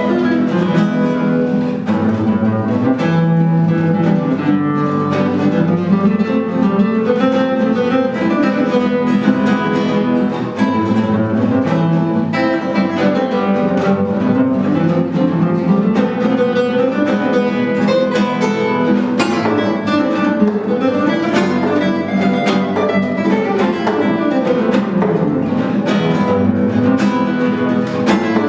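Two classical guitars playing a duet in flamenco style, with continuous plucked notes and running passages climbing and falling.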